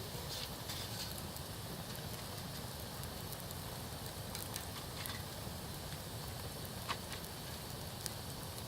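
Wood campfire burning: scattered sharp crackles and pops, a few seconds apart, over a steady low hiss.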